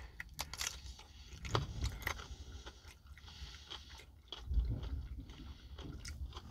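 A person biting and chewing a piece of boiled broccoli close to the microphone, with scattered small crunches and wet mouth clicks and a couple of dull low thumps.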